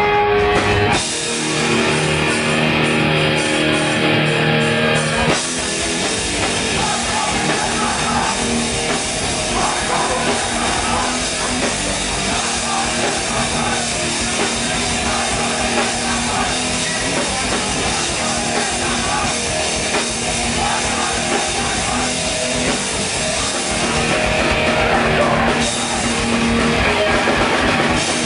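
Hardcore punk band playing live and loud, with distorted guitars, bass and drums. Held chords ring for the first few seconds, then the full band crashes in about five seconds in and drives on.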